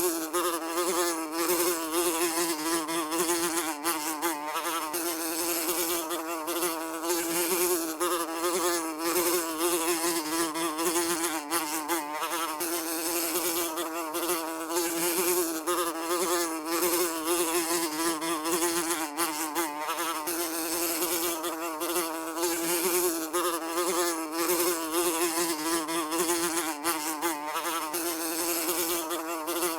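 Housefly buzzing continuously, its drone wavering slightly in pitch and loudness as it flies.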